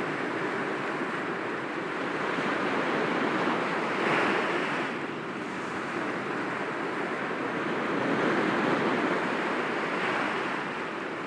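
Sea waves breaking gently against rocks: a continuous wash of surf that swells about four seconds in and again near the eighth second, with some wind noise on the microphone.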